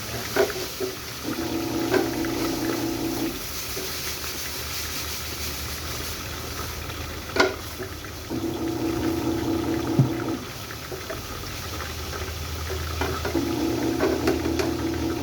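Food frying in hot oil in pans, a steady sizzle, with a few sharp clinks of a utensil against a pan. Three times, a steady droning hum of about two seconds rises over the sizzle.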